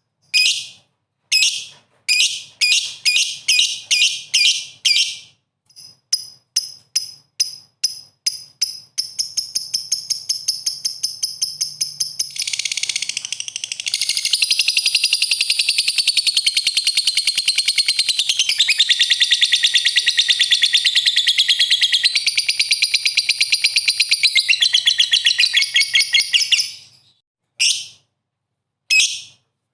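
Songbird singing: a run of sharp, high repeated chirps, turning into a fast trill about nine seconds in, then into dense, rapid, continuous song from about fourteen seconds that breaks off near the end.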